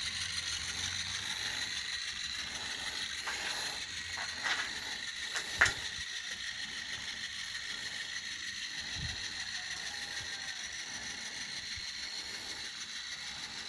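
RD-09 reduction-gear motor turning a skewer rotator through a chain drive: a steady whir and ticking of gears and chain. A few sharp clicks come between about three and six seconds in, the loudest at about five and a half seconds.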